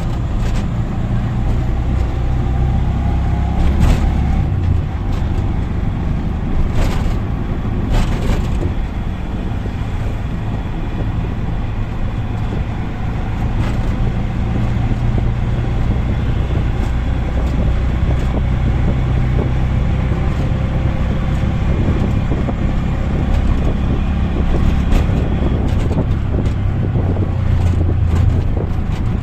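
Auto rickshaw engine running steadily on the move, heard from on board with road noise and traffic around it. A few sharp knocks or rattles come at about 4, 7 and 8 seconds in.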